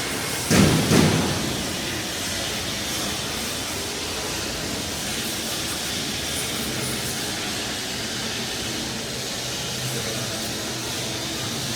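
Isuzu water fire truck running: a steady rushing noise with a faint low hum, broken by two thumps about half a second and a second in.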